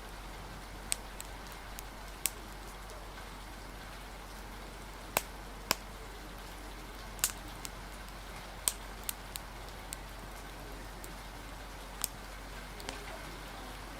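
Ambience of steady rain with a crackling fire: a constant rain hiss with about a dozen sharp pops scattered irregularly over it.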